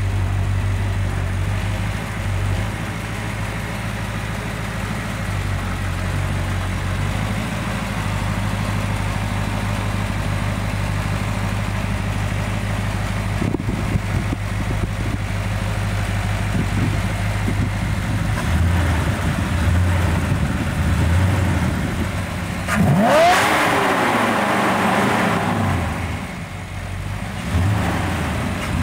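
1962 Dodge's 360 cubic inch V8, fitted with vacuum (negative pressure) supercharging, idling steadily with a few light throttle blips. About 23 seconds in it revs hard once, the pitch rising and then falling back to idle.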